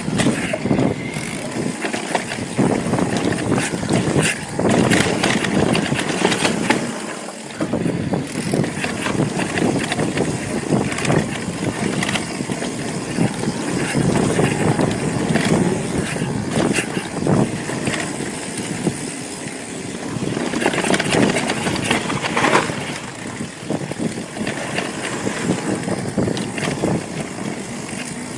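Mountain bike ridden fast down rocky singletrack: tyres rolling over dirt and rock, with the bike rattling and knocking over the bumps in a dense run of clicks.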